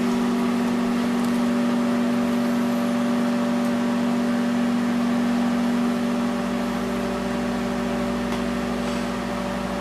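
Microwave oven running with a steady hum. Its hum deepens slightly about six seconds in.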